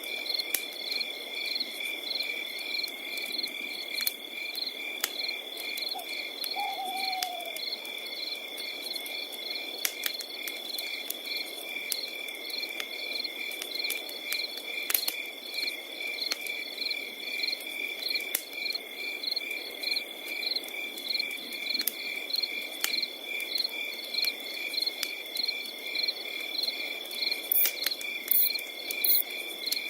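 Crickets, including tree crickets, with a continuous high trill and evenly repeated chirping at two pitches, over a crackling fire with scattered pops. About seven seconds in there is a short falling call, and near the end a quick run of louder crackles.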